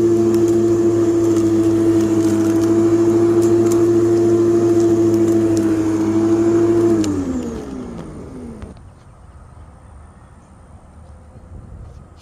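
Ework electric lawn mower motor and blade spinning with a steady hum. About seven seconds in it is switched off, and the pitch falls away as it winds down to a stop.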